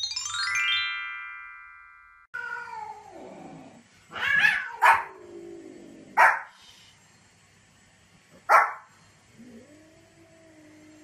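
A countdown sound effect: a quick falling run of chime tones that rings out. Then a white Pomeranian gives about four short, sharp barks a second or two apart, mixed with drawn-out cat meows that slide down in pitch.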